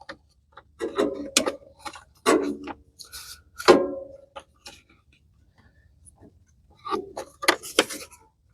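Scattered clicks and knocks of parts being handled and fitted by hand, a few of them with a short ringing tone, about one, two and a half and four seconds in. After a quiet stretch comes a quick run of clicks near the end.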